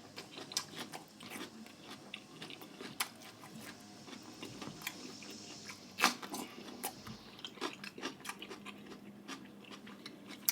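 Close-up chewing and crunching of food, with many short crackling mouth sounds; the loudest crunch comes about six seconds in.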